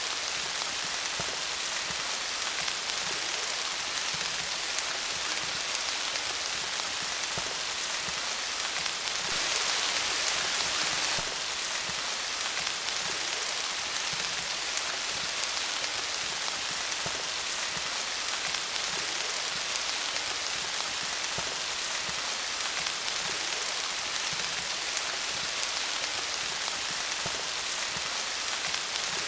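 Steady rain falling on leaves, a dense patter of drops, with a brief heavier spell about nine to eleven seconds in.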